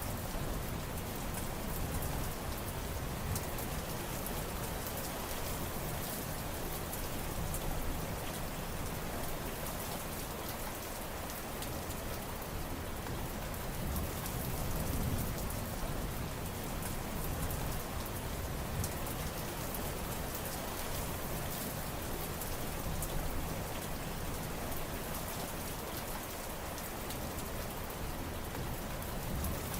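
Steady rain falling, an even hiss with many individual drops ticking through it and a low rumble underneath that swells and eases a few times.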